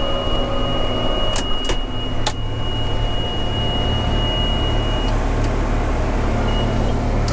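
John Deere 7600 tractor's six-cylinder diesel running steadily under the baler, with a steady high-pitched electronic tone that stops about five seconds in and a few sharp clicks between one and a half and two and a half seconds in.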